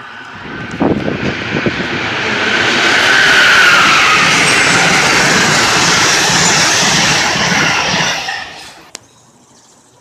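A passenger train passing through the station at speed: a loud rushing roar that builds from about half a second in, with a few sharp clicks near the start, then falls away sharply about eight and a half seconds in.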